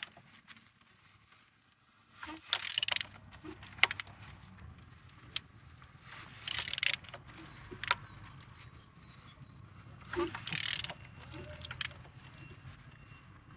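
An engine's crankshaft turned over slowly by hand with a wrench: a burst of metallic ratcheting and scraping about every four seconds, with single sharp clicks of metal in between, while the engine is checked for free turning and compression.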